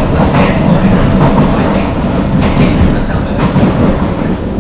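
Kawasaki–CSR Qingdao Sifang C151A metro train running, heard from inside the car: a steady low rumble of wheels on rail with several sharp clacks over rail joints.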